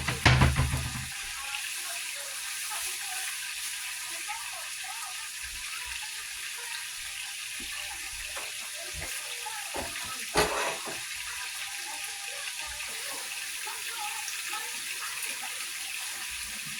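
Steak frying in butter in a pan, a steady sizzle. A few loud knocks in the first second and another about ten seconds in.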